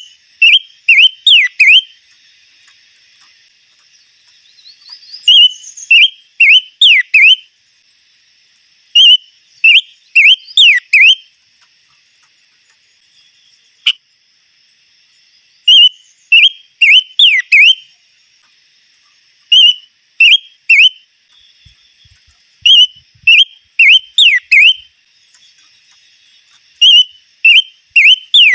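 A songbird (the 'chim ngũ sắc', five-coloured bird) singing loud, clear whistled phrases of three to five quick up-and-down notes. The phrases repeat about every three to four seconds over a faint, steady insect drone.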